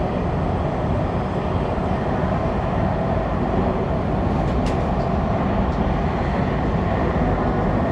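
Subway train running at speed through a tunnel, heard from inside the front car: a steady low rumble of wheels and motors on the rails, with a single faint click about halfway through.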